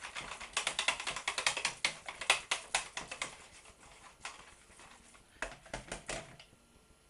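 Wire whisk beating milk into a thick flour-and-butter mix in a round-based jug, making rapid clicking strokes against the jug. The strokes thin out after about three seconds to a few short bursts and stop near the end.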